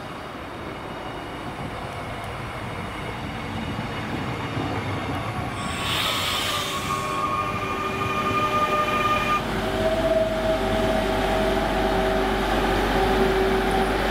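CP series 2240 electric multiple unit pulling into the platform and braking to a stop. Rolling noise grows louder, a short hiss comes about six seconds in, and brake squeal with several high tones follows. From about ten seconds in it gives way to lower steady tones and a low hum as the train stands.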